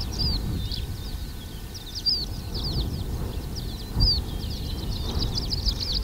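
Birds calling in repeated bursts of quick, high, downward-sliding chirps over a low steady rumble.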